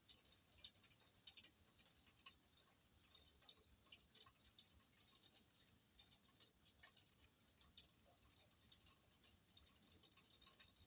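Faint, irregular patter of raindrops: scattered light ticks, several a second, over a faint hiss.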